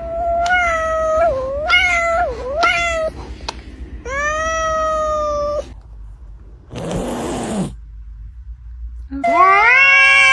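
Domestic cat meowing and yowling repeatedly, with several calls bending up and down in pitch and then one long, drawn-out meow. A short harsh noisy burst comes a little past the middle, and a loud, long yowl starts near the end.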